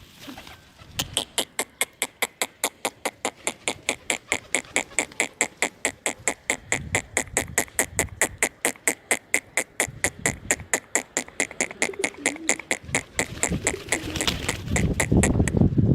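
A steady, even run of sharp clicks, about four a second, repeated for over ten seconds, then a louder burst of noise near the end.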